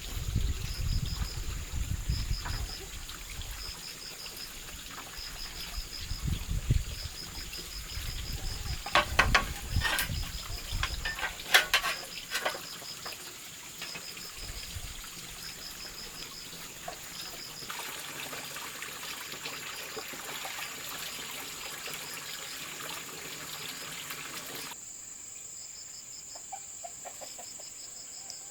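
Insects chirping in a steady pulsing rhythm, about once a second, over a continuous high insect drone, with a few sharp knocks about nine to twelve seconds in.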